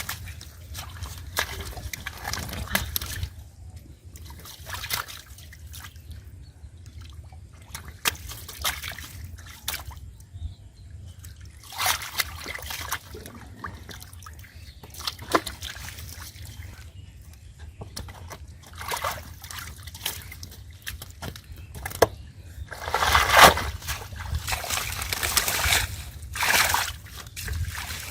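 River water sloshing and splashing in irregular bursts, loudest near the end.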